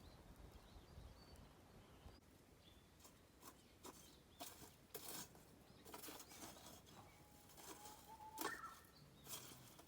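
Faint, sparse crackles and pops of a wood campfire, with one short rising whistle about eight seconds in.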